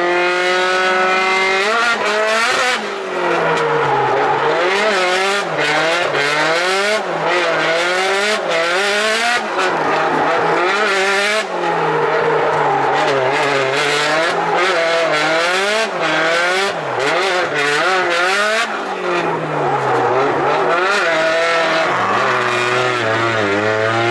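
Turbocharged car engine revving hard on track, its pitch climbing and dropping over and over as it accelerates and backs off through a run, with boost peaking at about 2 bar. Near the end the revs fall and hold at a low, steady note.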